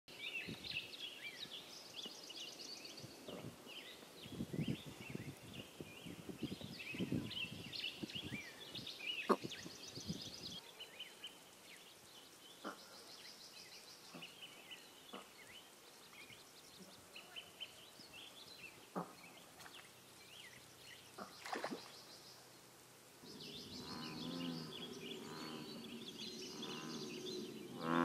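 Songbirds chirping and calling in quick, high-pitched phrases over a pond. Low soft thumps come through in the first ten seconds, and a deeper droning sound with several steady tones comes in near the end.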